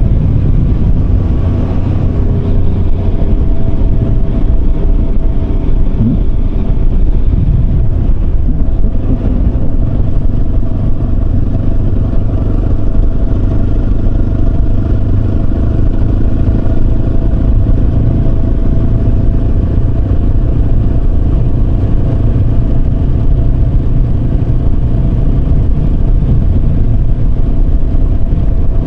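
Yamaha Serow 250's single-cylinder four-stroke engine running at a steady speed while riding, under a heavy low rush of wind over the microphone.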